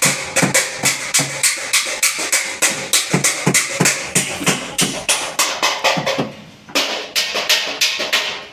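Rapid hammer blows on the sheet metal of a truck cabin during dent straightening, about four strikes a second with the panel ringing between them, pausing briefly near the end before a few more blows.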